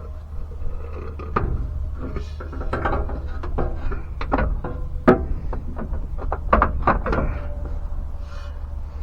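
Irregular knocks, clicks and clanks of hand tools and metal parts being handled, over a steady low hum.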